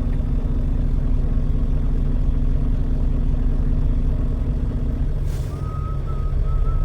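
Semi-truck engine running with a steady low drone. About five seconds in, the engine note drops and there is a short hiss, followed by a faint wavering high tone.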